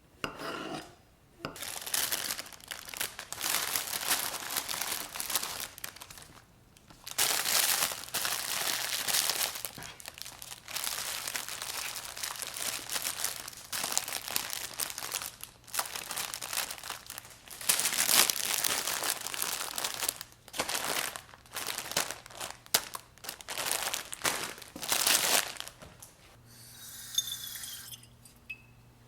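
Packaging being handled, crinkling and rustling in long stretches broken by short pauses, as food is wrapped for storage.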